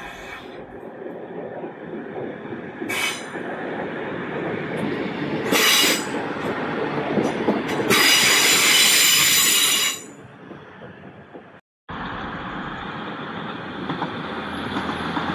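Northern electric multiple unit running past close by, rumbling, with three loud high-pitched squeals from its running gear; the last and longest lasts about two seconds. After a brief break comes a steady rumble of rail traffic.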